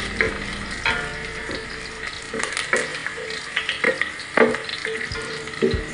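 Whole spices, curry leaves and pandan leaves sizzling as they fry in oil in a stainless steel pot. A wooden spoon stirs them, scraping and knocking against the pot at irregular moments.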